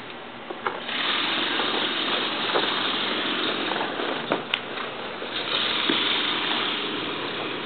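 Gas torch burner running with a steady, jet-like rushing noise as it heats PVC pipe to soften it for bending. It grows louder about a second in, with a few small clicks and pops.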